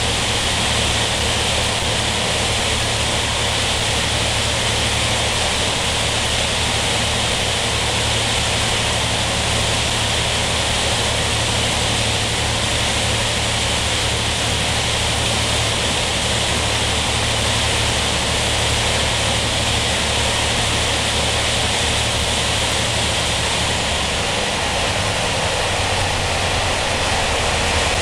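Steady roar of a moving passenger carriage, heard from inside a non-air-conditioned Taiwan Railway ordinary (pu-kuai) train: wheels on the rails and running noise with a strong low rumble. The rumble shifts slightly about 24 seconds in.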